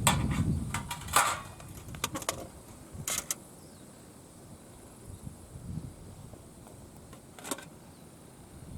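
A few sharp clicks and taps in quick succession over the first three seconds and once more near the end, over a faint low rumble at the start; otherwise quiet.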